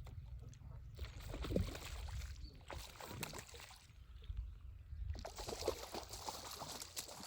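Water sloshing and trickling, with scattered small knocks and clicks over a low rumble.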